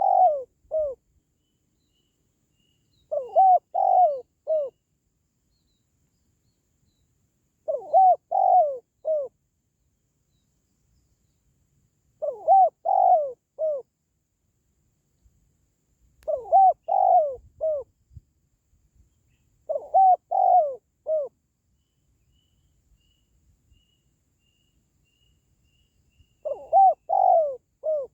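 Spotted dove cooing: a phrase of three or four arched coo notes, repeated about seven times with gaps of a few seconds between.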